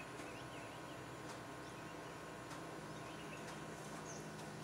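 Faint outdoor ambience of dry forest, with a few short, high bird chirps over a steady hiss.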